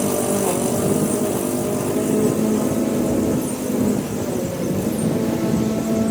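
Toro Smart Stow self-propelled gas push lawnmower's small engine running steadily, its pitch sagging slightly about four seconds in.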